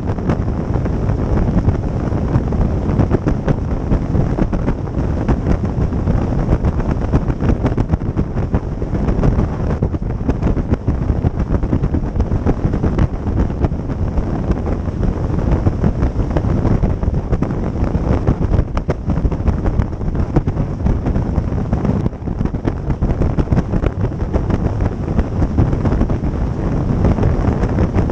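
A motorboat under way, with heavy wind buffeting the microphone over the boat's running engine and the water against the hull. The noise is loud and steady, with constant rough fluttering.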